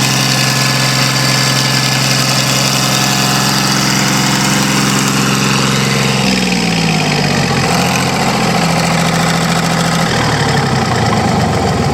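Hatz 3L40 three-cylinder air-cooled diesel engine running at a steady speed, then slowing about six seconds in and dropping lower again near ten seconds, still running at the end.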